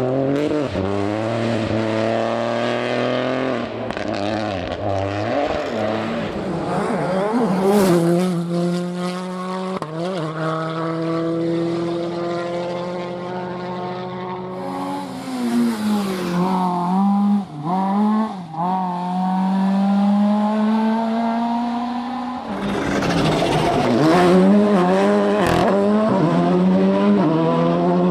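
Rally car engines at full throttle on a stage, the pitch climbing through each gear and dropping back at the shifts, over and over. One car lifts off with a few sharp breaks in the note about two-thirds of the way through, and the sound picks up again, louder, near the end.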